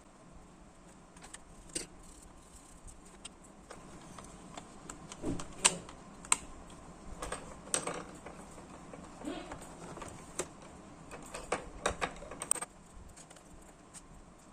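Irregular clicking and tapping of laptop keys, in short uneven runs with a few louder clicks.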